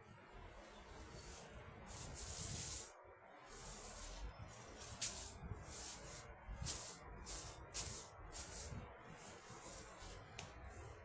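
Irregular rustling and brushing noise that comes and goes every half second or so, with a few short breaks.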